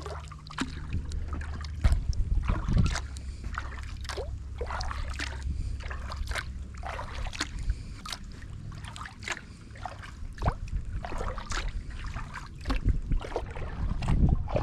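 Kayak paddle strokes: the blades dipping into the water with small, irregular splashes and drips, over a steady low rumble.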